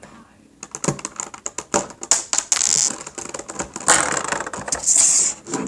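Plastic Rubik's cube pieces clicking and scraping as they are handled and pushed back into the cube during reassembly, a quick run of sharp clicks with two short scraping stretches.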